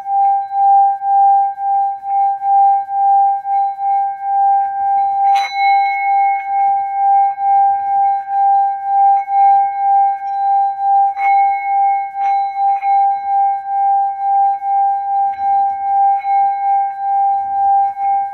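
Singing bowl ringing with one steady tone and its overtones, swelling and fading about twice a second. It is struck sharply twice, about five and eleven seconds in, each strike adding a brief bright clink.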